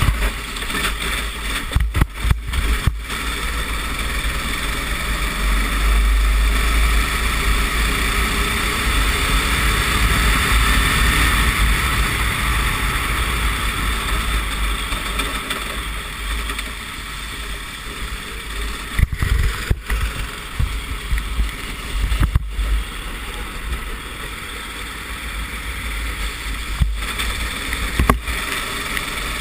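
Go-kart engine running, heard through an onboard camera on a wet track, under a steady rushing noise and a heavy low rumble, with a few brief dropouts.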